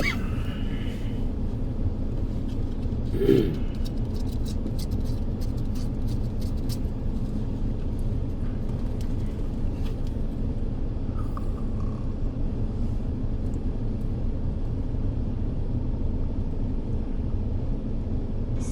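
Steady low rumble of a vehicle in motion, with a brief louder sound about three seconds in and a few faint clicks.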